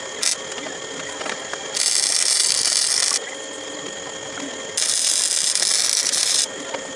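Hand ratchet wrench clicking quickly in two spells of about a second and a half each, with a pause between, while a bolt on the mower's steering rod is run in.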